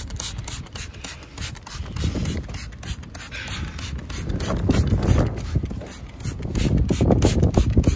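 Wind buffeting the microphone in an irregular low rumble that swells and fades, with scattered light clicks and handling noise.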